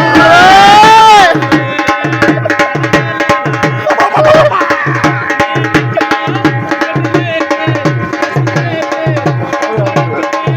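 Dhol played in a steady rhythm of low, deep beats, about two to three a second, under a Punjabi song. A voice sings a long, loud sliding note in the first second and another phrase about four seconds in.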